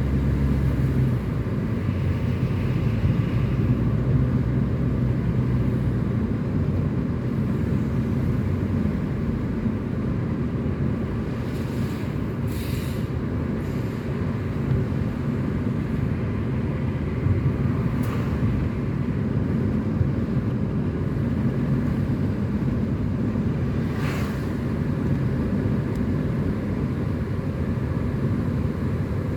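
A car on the move: a steady low rumble of engine and tyres on the road, with a few brief swishes spread through it.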